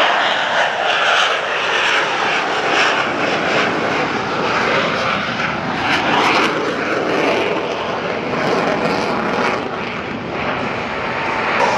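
Loud jet noise from Boeing F/A-18 Super Hornet fighter jets flying at high power, a dense rushing sound that swells and eases slowly.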